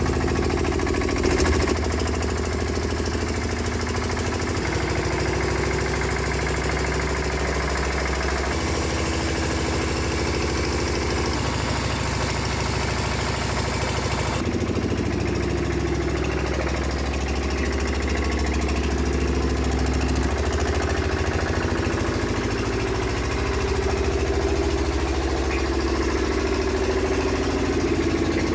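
Royal Enfield Bullet's single-cylinder engine idling steadily. The tone shifts abruptly a few times.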